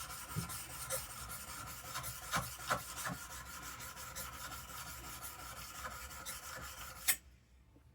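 A steel plane blade rubbed back and forth on an oiled medium India stone, a steady scraping as its back is flattened. It stops with a click about seven seconds in.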